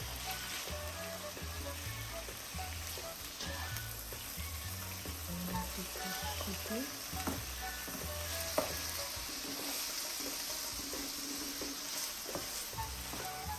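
Pieces of chicken thigh sizzling in hot oil in a frying pan while being stirred, with scattered scrapes and taps of the utensil against the pan.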